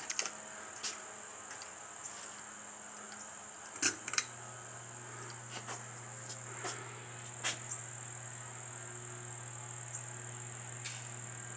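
Hampton Bay Gazebo ceiling fan being started again after its reverse switch was flipped. A click comes about four seconds in, then the motor's low, steady hum comes on, with a few light clicks. A steady high-pitched whine sounds throughout.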